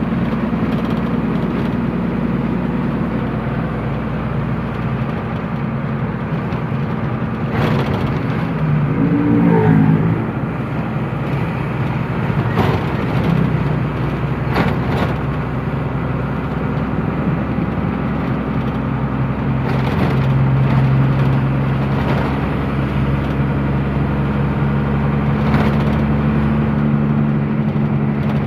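Truck engine running steadily while driving. Its pitch drops and gets louder about two-thirds of the way through. A few sharp knocks or rattles come through.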